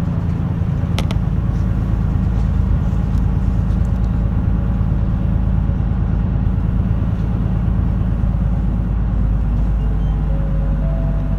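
Route bus engine and road noise heard from inside the cabin: a steady low drone with no change in pace. A single sharp click about a second in.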